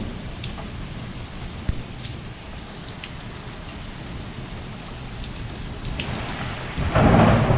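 Heavy thunderstorm rain falling steadily, with scattered drops ticking sharply close by. About seven seconds in, a loud rumble of thunder breaks in, the loudest sound here.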